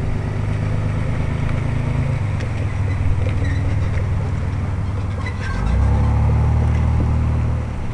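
Car engine running close by: a steady low hum that grows louder and deeper about six seconds in, then eases off near the end, as when the car pulls away or moves.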